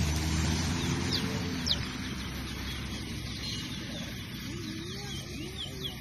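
A few short, high downward chirps from a caged race bird in the first two seconds, the last of them the sharpest and loudest, over the steady low hum of an idling vehicle engine that fades out about two seconds in. Low voices murmur faintly later on.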